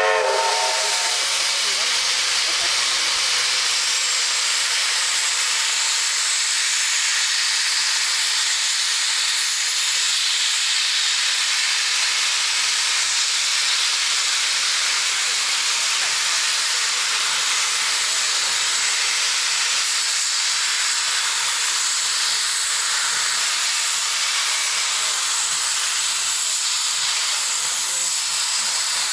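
Steam locomotive letting off steam: a loud, steady hiss that holds unchanged throughout. It opens with the last half second of its steam whistle, rising briefly in pitch.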